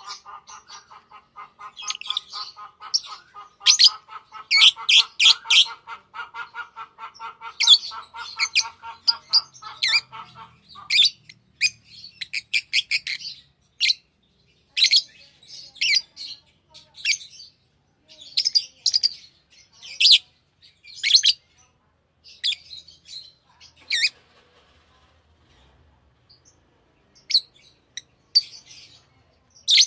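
Pet lovebirds chirping and squawking: many short, sharp, high calls in quick runs, with pauses between them. For the first ten seconds or so a lower, fast rapid chatter runs under the calls, then stops.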